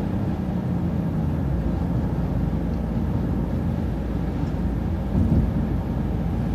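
City transit bus driving along the road, heard from inside: a steady low rumble of engine and road noise, swelling briefly about five seconds in.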